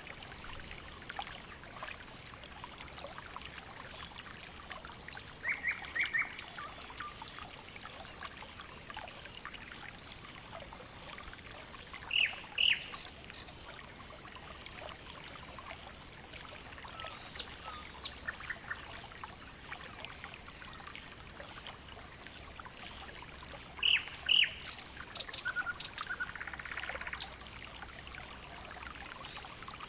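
Barn ambience of scattered bird chirps over a steady, high-pitched pulsing trill.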